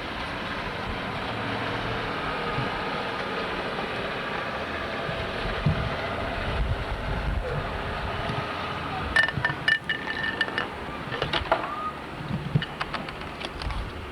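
A motor vehicle running steadily, then a run of sharp clicks and short high beeps starting about nine seconds in.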